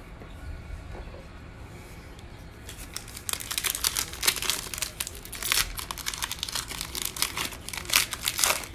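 Foil trading card pack wrapper being torn open and crinkled by hand. The crinkling starts about three seconds in and runs on as a quick, uneven string of crackles.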